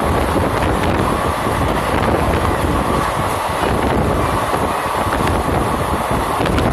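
Passenger train running at speed, heard from beside the window: a steady rumble of the wheels and running gear mixed with rushing wind on the microphone.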